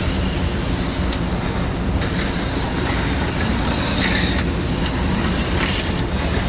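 HO-scale slot cars' small electric motors whirring around the track, the high whine swelling and fading every couple of seconds as the cars pass, over a steady hum.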